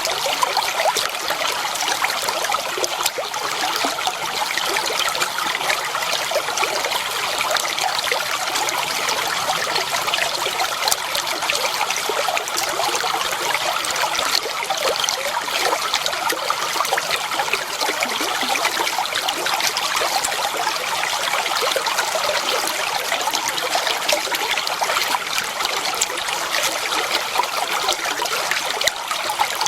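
Clear water flowing and trickling steadily, a constant babbling rush with fine splashy detail and little low rumble.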